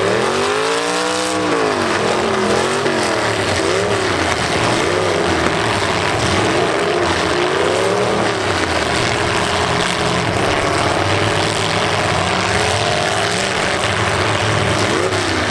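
Demolition derby car engines revving hard, several at once, their pitch swinging up and down again and again over a constant noisy din; the biggest rev rises and falls in the first couple of seconds.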